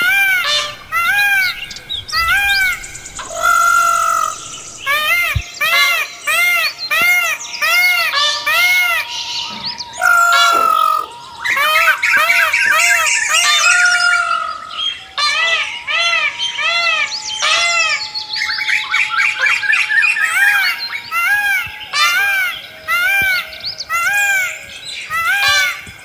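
Several birds calling at once: short chirps that rise and fall in pitch, repeated about twice a second and overlapping.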